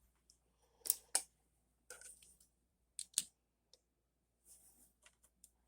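A scattered handful of sharp little clicks and taps, several coming in quick pairs, as die-cast toy cars and their plastic track pieces are handled and set down.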